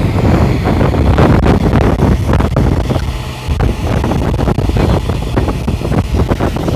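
Forest fire burning, with rapid irregular crackling and popping over a low rush of wind on the microphone.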